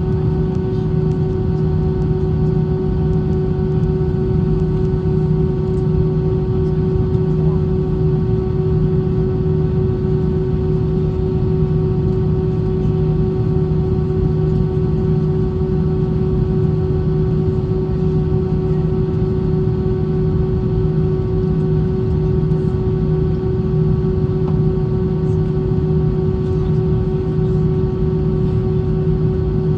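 Steady cabin noise inside a British Airways Airbus A320: a constant engine drone and rumble with an unchanging low hum, no rise or fall throughout.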